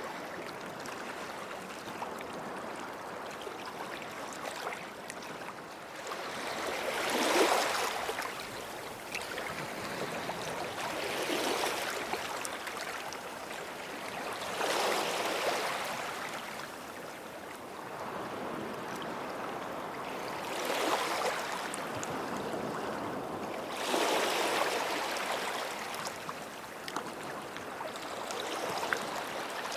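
Small sea waves breaking and washing up on a sandy shore, one swell every three to four seconds over a steady hiss of water, the strongest about seven seconds in.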